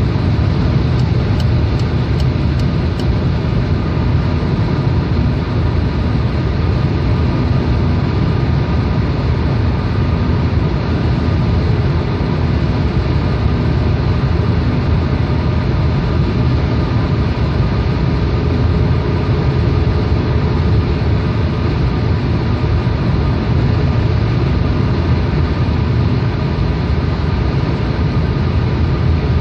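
Peugeot 308 car driving at a steady speed, heard from inside the cabin: a constant low rumble of road and engine noise with no revving, and a few faint ticks about one to three seconds in.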